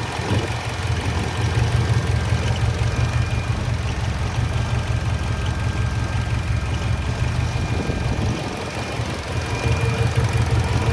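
Honda K24 four-cylinder engine idling while warming up, with its idle air control valve shut off so the idle is unregulated and runs low. The sound eases briefly about eight seconds in, then picks back up.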